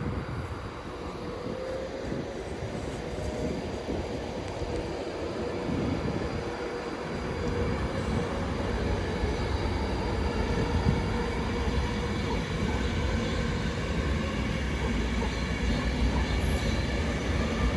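Class 390 Pendolino electric train running through the station: a steady low rumble with a faint whine, slowly growing louder.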